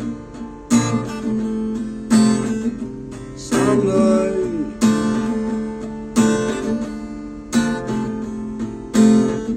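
Acoustic guitar strumming chords, one sharp strum about every second and a half, each chord left to ring and fade before the next.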